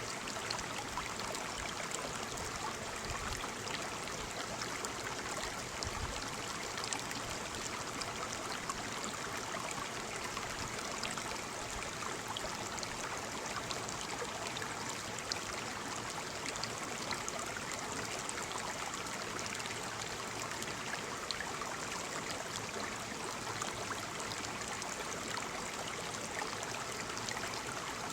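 Waterfall: a steady, unbroken rush of falling water splashing.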